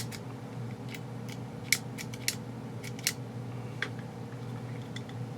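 Small, sharp clicks and taps of hard parts and tools being handled while an airsoft rifle is worked on, about ten of them at uneven intervals, over a steady low hum.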